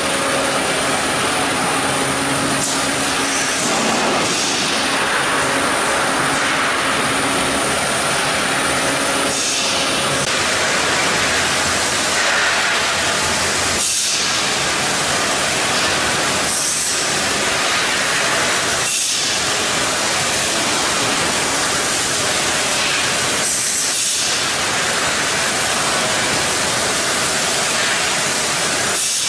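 Loud, steady industrial machine noise, a dense hiss-like roar with short dips every few seconds.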